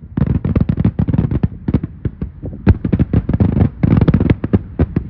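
Fireworks going off in a rapid string of bangs and cracks, several a second, with one louder bang about halfway.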